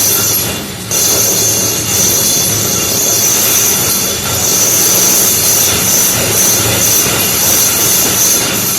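Power drill boring through a brick wall, running continuously with a high grinding whine and a brief dip just under a second in.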